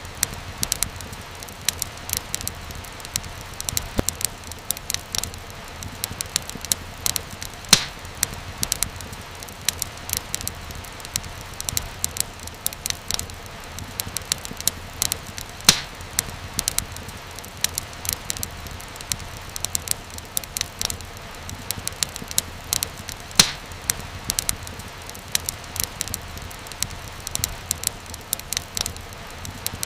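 Wood fire crackling steadily over a low hiss, with irregular sharp snaps and a few louder pops.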